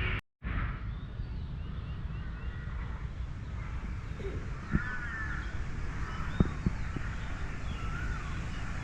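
Park ambience: birds chirping repeatedly over a steady low rumble, with a few soft knocks from about halfway through. The sound drops out completely for a moment just after the start.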